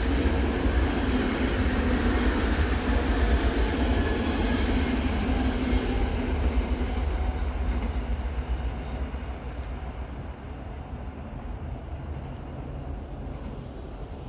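Passenger train passing on the line, a steady rumble of wheels on rail that fades away over the second half.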